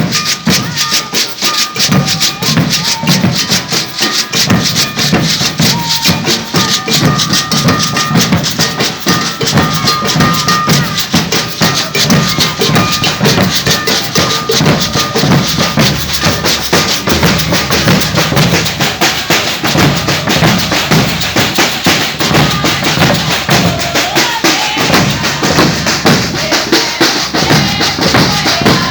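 Maracatu de baque virado percussion ensemble playing a steady, dense rhythm: deep alfaia drums, snare drums and rattling agbê shakers.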